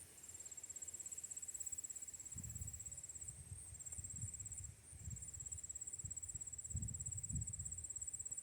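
Field insects calling in a steady, high, pulsing chirr that breaks off briefly a few times, over intermittent low rumbling.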